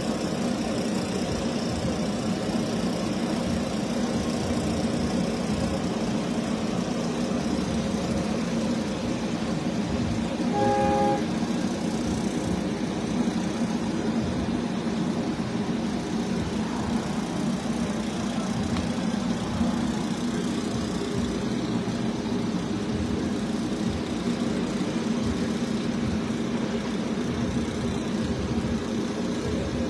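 Vehicle engine idling steadily, with a brief horn toot about eleven seconds in.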